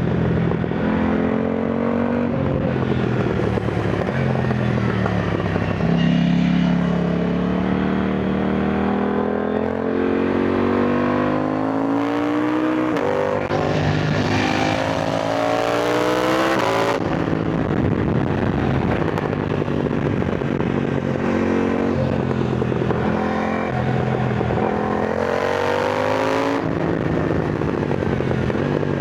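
KTM Duke 990 motorcycle engine under way, accelerating through the gears. The revs climb in a run of rising pulls, each cut short by a drop in pitch at the shift. They then ease back and hold lower before climbing again near the end.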